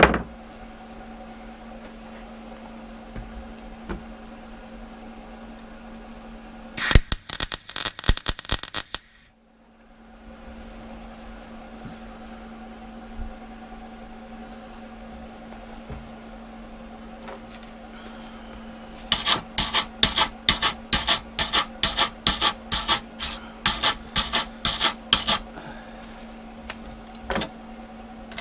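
MIG welder stitch-welding a door repair section one blob at a time: a crackling burst of about two seconds around seven seconds in, then a run of short crackling blips, about three a second, over a steady low hum.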